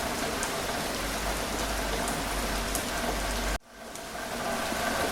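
Steady rain falling, with scattered drops. About three and a half seconds in the sound cuts out suddenly and fades back up over about a second.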